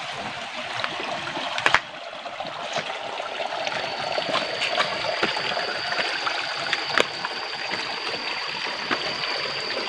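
Shallow stream trickling over rocks, with a couple of sharp clicks. A thin, steady high-pitched tone comes in about a third of the way through and holds.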